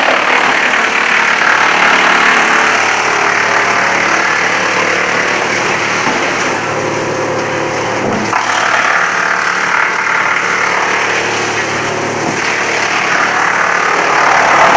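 Wood chipper running: a steady engine drone under a dense rushing noise that eases off slightly around the middle and swells again near the end.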